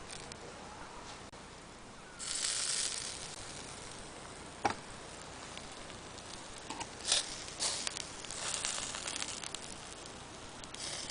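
Food sizzling over a charcoal grill in hissing bursts of about a second each, with a few sharp clicks in between.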